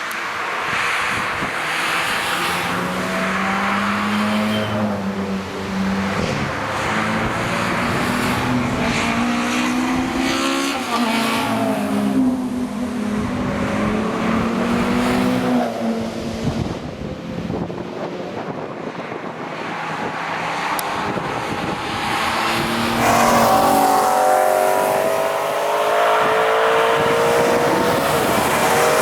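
Cars driving past on a wet track, engine notes rising and falling as they accelerate and shift, over a steady hiss. About three quarters of the way through, a louder car passes, its engine note climbing steeply under hard acceleration.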